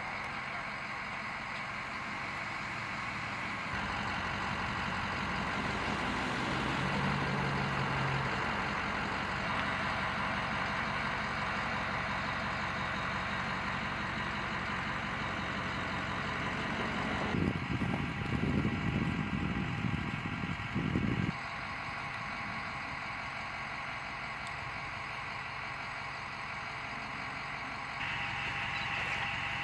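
Heavy vehicle engine idling steadily, with a louder, rougher stretch lasting about four seconds a little past the middle.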